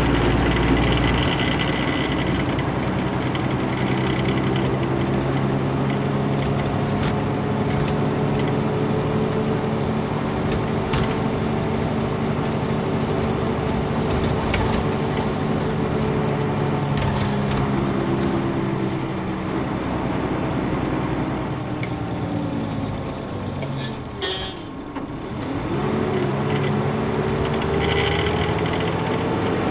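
Nissan Diesel UA bus's PF6HTA diesel engine heard from on board while driving, pulling at a steady pitch. Its note eases down through the middle, dips sharply about 24 seconds in with a few clicks, then climbs again.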